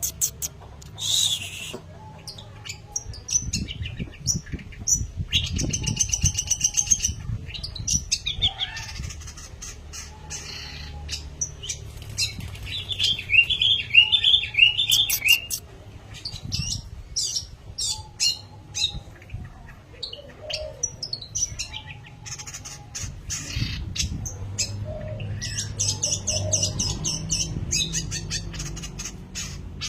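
Long-tailed shrike (pentet) singing in a rapid, varied medley of chirps, trills and harsh rattling phrases, with short pauses, over a low background hum.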